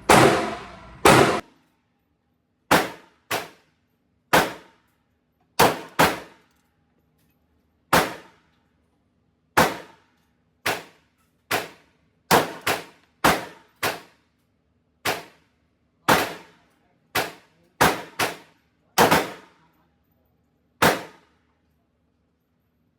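9mm Glock 45 pistol shots echoing in an indoor range, about twenty in irregular strings, many fired as quick pairs about half a second apart, each with a short ringing tail.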